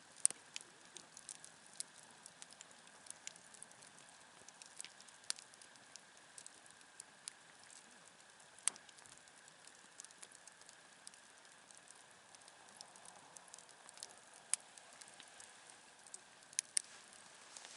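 Wood campfire crackling quietly, with scattered sharp pops and snaps, a louder snap about nine seconds in and two close pops near the end.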